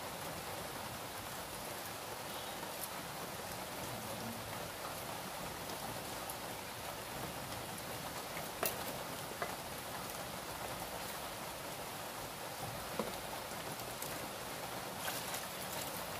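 Steady rain, a continuous even patter with a few sharper drips or taps now and then.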